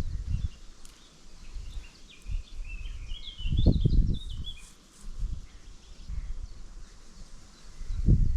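A small songbird sings a short chirping, warbling phrase about two to four seconds in, over low rumbles and thumps, the loudest of which comes near the middle.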